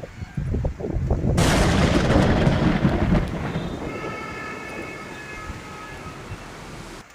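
Thunder: a low rumble, then a sudden loud crack about a second and a half in that rolls on and slowly fades. It cuts off suddenly near the end.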